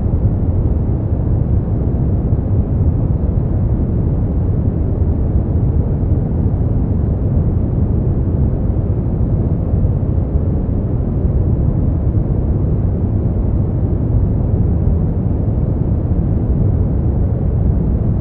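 Continuous steady noise for sleep, sold as white noise but deep, with most of its energy low down and no high hiss; it does not change at all.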